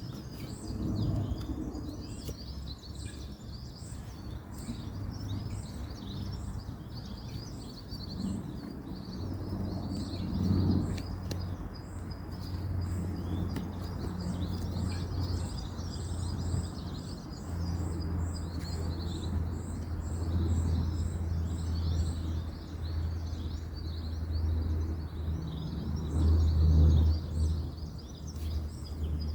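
Small birds chirping and twittering continuously, with one high chirp repeating about once or twice a second. Underneath is a low, steady rumble of distant road traffic that swells a few times.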